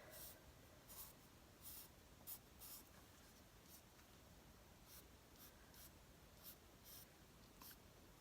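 Faint, short scratching strokes of a drawing tool on paper, about a dozen at an irregular pace, as outlines are drawn around cut-out collage images.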